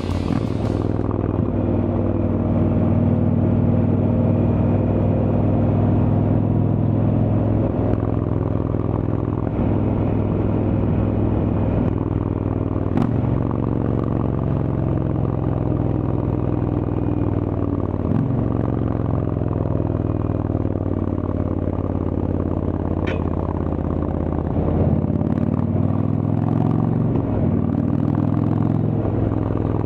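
Indian Chieftain's Thunderstroke V-twin running through a Freedom Performance exhaust while the bike is ridden on the road. The engine note dips and recovers several times as the throttle comes off and back on, with a couple of sharp clicks.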